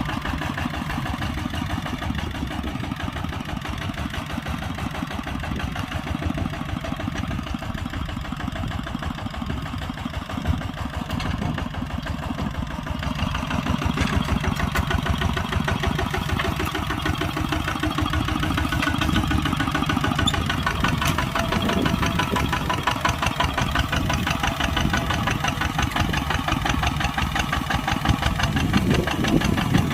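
Kubota ZT140 walking tractor's single-cylinder diesel engine running steadily under plowing load, with a fast even firing clatter. It gets somewhat louder from about halfway through.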